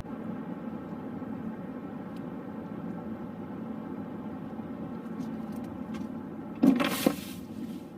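Steady hum of road traffic, with a sudden loud burst of noise about seven seconds in.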